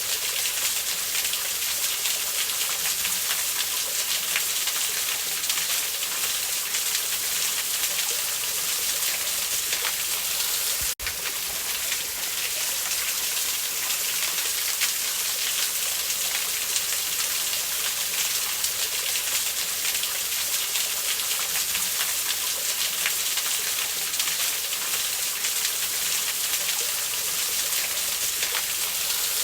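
Steady rush of a waterfall, with a brief drop-out about eleven seconds in.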